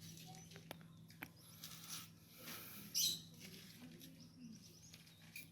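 Faint high chirps and calls of a cinereous tit (gelatik batu), with a louder burst of calls about three seconds in and a few small clicks.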